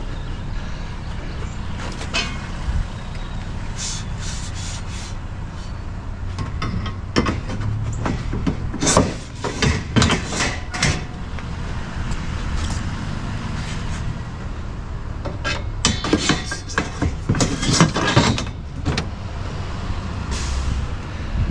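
A vehicle engine idling steadily with a low rumble. Two stretches of knocking and clattering from scrap being handled come through it, about seven to eleven seconds in and again about sixteen to nineteen seconds in.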